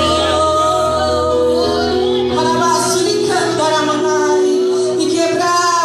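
Live church worship music: voices singing a hymn over sustained keyboard chords, with a high cymbal wash coming and going.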